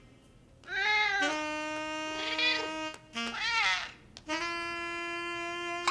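A cat meowing three times, short bending calls, over background music with long held notes.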